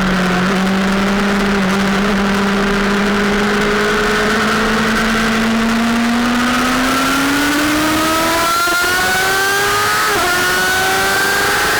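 Sportbike engine holding a steady pitch, then accelerating from about six seconds in, pitch climbing, with a quick upshift dip near ten seconds before climbing again.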